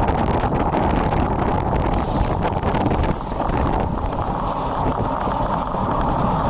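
Steady wind noise buffeting an action camera's built-in microphone, with road noise, while riding a road bike in strong typhoon wind and rain.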